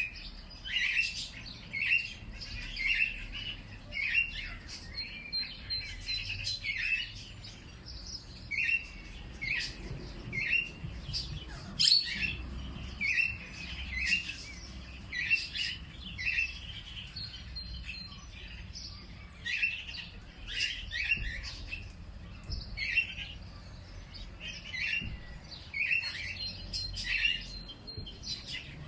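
Birds chirping outdoors, a steady run of short repeated chirps, one every half second to a second, with a faint thin high whistle now and then. A single sharp click about twelve seconds in stands out above the chirping.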